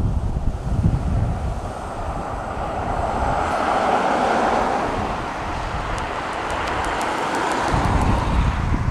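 Jet engines of a Boeing widebody airliner passing, a broad rushing noise that swells to its loudest about four seconds in and then eases, with wind buffeting the microphone at the start and near the end.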